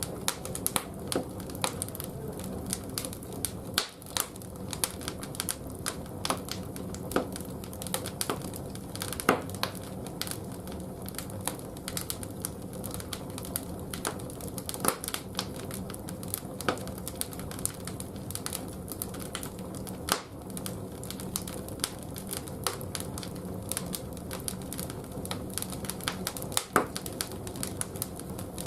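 Split firewood logs burning in a bathhouse boiler's firebox, crackling with irregular sharp pops and snaps over a steady low hum.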